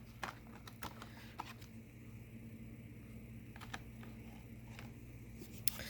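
A few faint scattered clicks and taps, more of them in the first couple of seconds, over a low steady hum.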